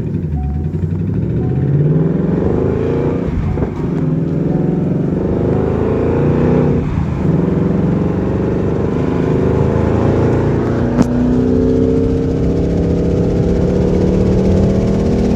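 Supercharged 5.0-litre V8 of a 2019 Ford Mustang GT with a Gen 5 Whipple blower, driven and accelerating. The engine note climbs in pitch and drops back about four and seven seconds in, then climbs again. Its knock sensor is logging knock and pulling timing under load.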